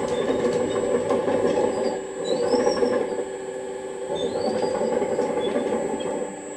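Electric motor and hydraulic pump of an RC hydraulic excavator running steadily, a dense mechanical whirr with a thin high whine over it.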